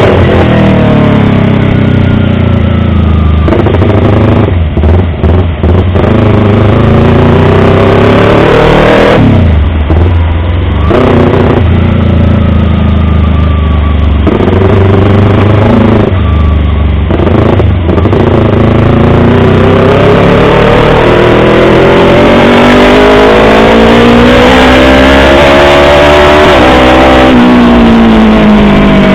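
Yamaha YZF-R25 250 cc parallel-twin motorcycle engine running loud, its revs climbing and falling repeatedly with brief breaks, then a long, slow fall in the second half before climbing again near the end.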